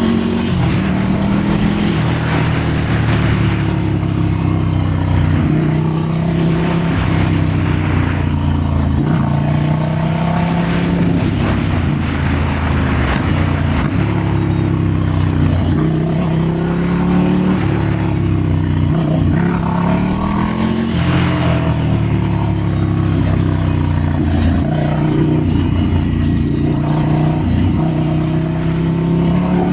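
Ducati Scrambler's air-cooled L-twin engine on a trail ride, its revs rising and falling again and again as the throttle opens and closes, with a steady hiss of wind and tyre noise over it.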